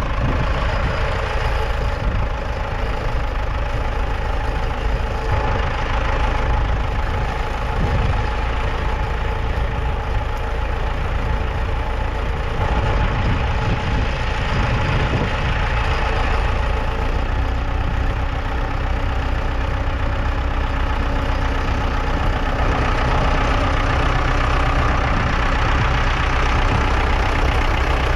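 1977 Ford 6600's 4.2-litre four-cylinder diesel engine running steadily, working a plough.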